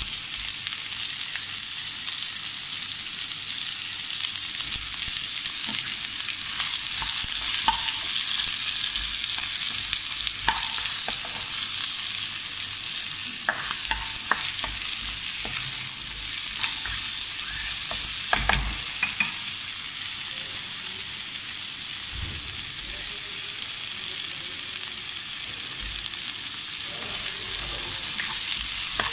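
Vegetables and ground chicken sizzling steadily in a hot nonstick wok as they are stir-fried, with a plastic spatula scraping and knocking against the pan now and then; the loudest knocks come about two-thirds of the way through.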